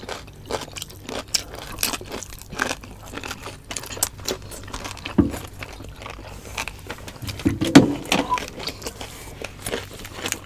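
Close-miked eating of crispy roast suckling pig: many quick, sharp crunches and crackles of chewing. A louder low thump comes about three-quarters of the way in.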